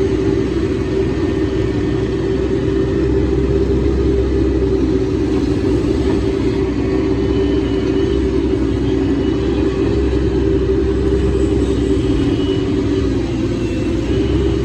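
Hydraulic excavator's diesel engine running steadily, a constant low drone.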